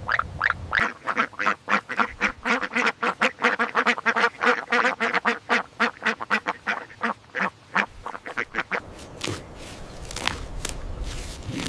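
Ducks quacking in a fast, continuous run of short calls, about five a second, which stops about nine seconds in. It gives way to a rougher, noisier sound with a few sharp clicks.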